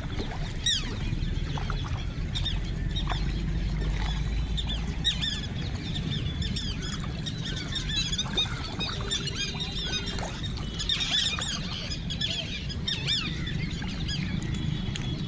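A flock of birds calling, many short high calls overlapping throughout, over a steady low rumble.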